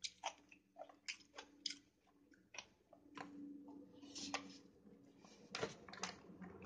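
Chewing chicken biryani, irregular wet mouth clicks and smacks every fraction of a second.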